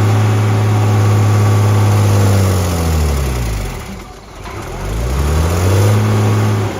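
Large old tractor's engine running at full throttle under load. Its revs fall away about three seconds in, almost to nothing just past four seconds, then climb back up and drop again near the end.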